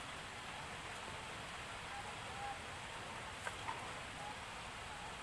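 Steady hiss of rain falling, with two small sharp clicks a little after the middle.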